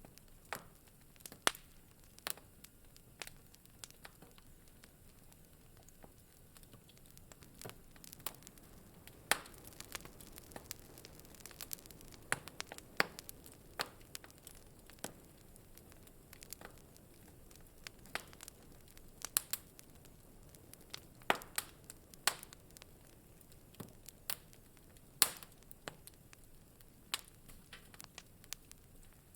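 Wood fire crackling in a fireplace: irregular sharp pops and snaps, some much louder than others, over a faint steady hiss.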